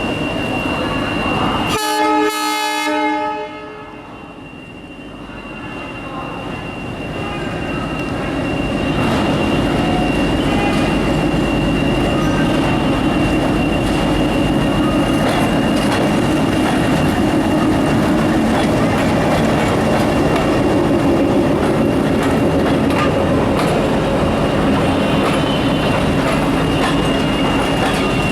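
A Bangladesh Railway diesel passenger train's horn sounds once, briefly, about two seconds in. Then the train's running noise builds up over several seconds and carries on as a steady loud rumble with wheels clattering on the rails as it passes.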